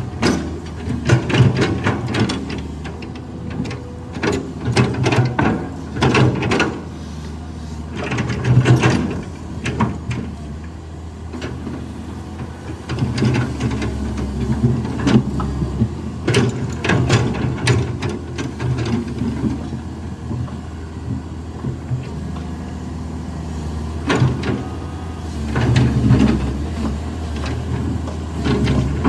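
Caterpillar 320 excavator's diesel engine running and working under load, its pitch and level swelling at times, with frequent clanks and knocks of metal and rock from the working bucket.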